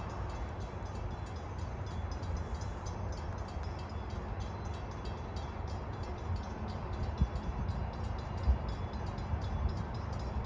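CSX freight train running along the track: a steady low rumble with a few heavy thumps in the second half.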